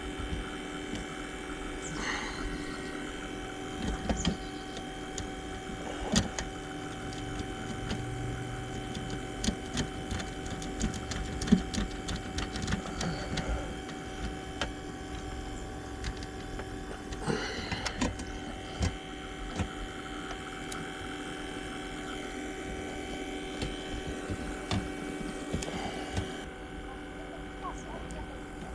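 A steady hum made of several fixed tones, with scattered light clicks and taps throughout.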